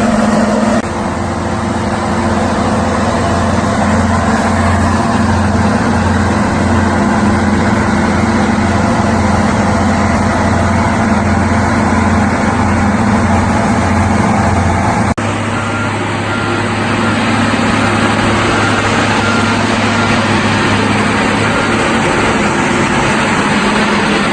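A large engine running steadily at a low, even pitch. The sound changes abruptly about a second in and again about 15 seconds in.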